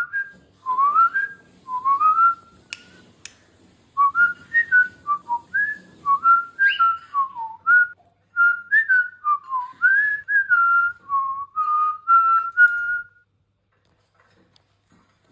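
Cockatiel whistling a tune: a melodic run of clear, sliding whistled notes in short phrases, which stops a couple of seconds before the end.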